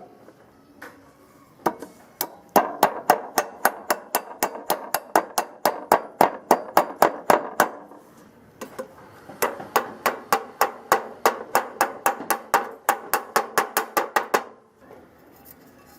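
Rapid hammer blows at about four a second, in two runs of roughly five seconds each with a brief pause between, during the restoration of an old portable electric hand planer.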